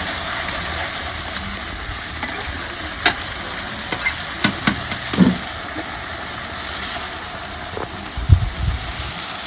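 Food frying in hot oil in a cooking pan with a steady sizzle, stirred with a spatula that clicks and knocks against the pan a few times.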